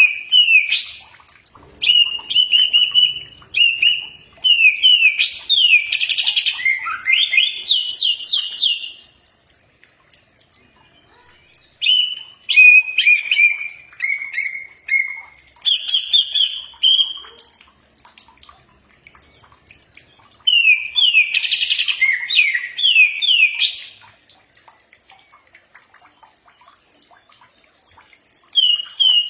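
Green leafbird (cucak ijo) singing in phrases of a few seconds separated by short pauses, about four phrases in all. Each phrase mixes clear whistled notes with quick runs of rapid, downward-sweeping notes.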